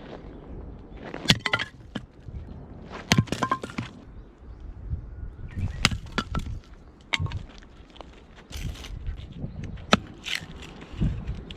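Firewood being broken up: a series of sharp wooden cracks and knocks, about seven, at irregular intervals.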